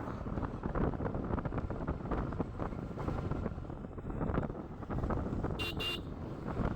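Wind buffeting the microphone on a moving motorcycle, a steady low rumble of wind and road noise. About five and a half seconds in, a horn gives two short toots.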